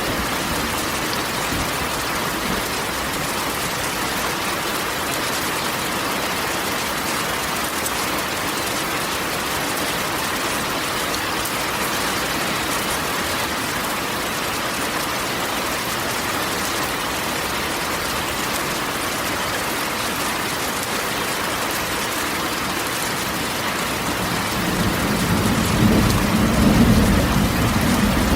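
Steady rain drumming on a corrugated metal roof. A low rumble swells near the end.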